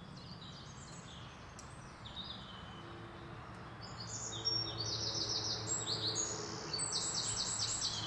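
Small birds chirping and twittering over faint outdoor background noise, growing busier about halfway through with fast runs of repeated high notes.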